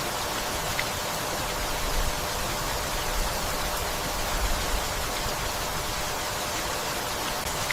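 Steady rain falling, an even hiss of many drops, with a few brief low rumbles underneath.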